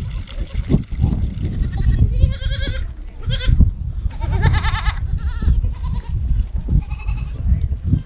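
Goats bleating, several short, quavering calls one after another, over a steady low rumble of noise.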